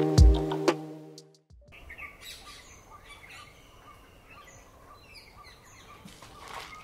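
Background music with a beat, cutting off about a second and a half in, followed by faint birds chirping with scattered short high calls.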